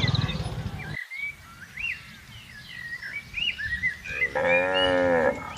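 A cow moos once near the end, a single long call. Before it, small birds chirp faintly in short high notes.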